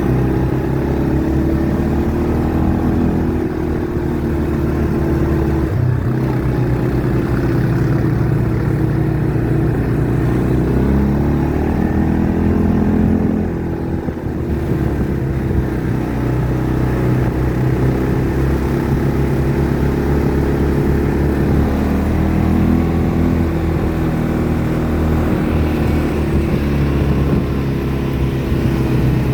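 ATV engine running while riding, its revs rising and falling, with a brief drop in revs about fourteen seconds in.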